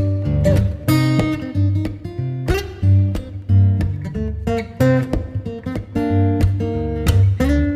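Acoustic guitar music: plucked and strummed notes over a steady bass pulse.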